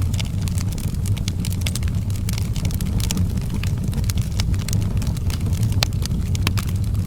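Outdoor wood fire burning, with frequent sharp crackles and pops over a steady low rumble.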